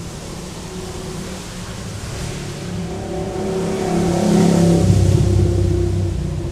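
A motor vehicle's engine passing close by, growing louder to a peak about four to five seconds in and then fading.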